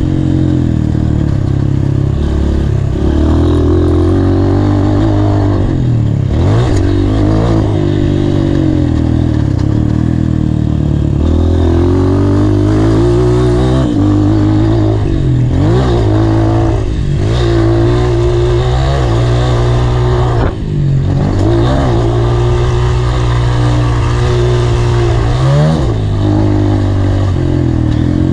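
Honda CRF230 dirt bike's air-cooled single-cylinder four-stroke engine being ridden hard, revving up and down continuously. The pitch drops sharply and climbs again several times as the throttle is rolled off and gears change.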